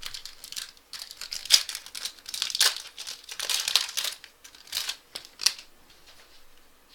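Crinkling and tearing of a trading-card pack wrapper as it is torn open and peeled off the cards, in irregular bursts that die away after about five seconds.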